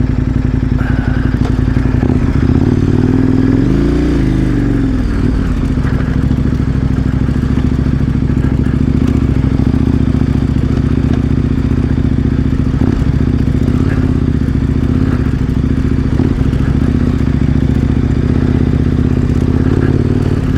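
KTM 1090 Adventure R's V-twin engine running at a steady cruise, with the revs rising and falling once about four seconds in.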